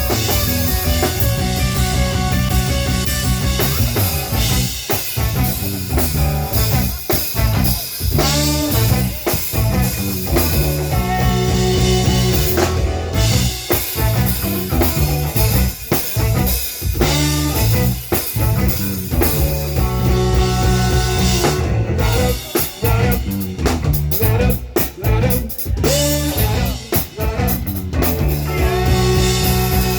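Live rock band playing: drum kit, heavy bass and electric guitar, with a melodic line bending in pitch over the top.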